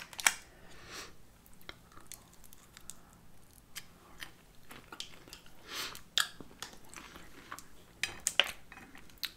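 Close-up mouth sounds of a person chewing a cocktail shrimp dipped in cocktail sauce: soft, wet chewing broken by small clicks and smacks, with a few louder ones partway through and near the end.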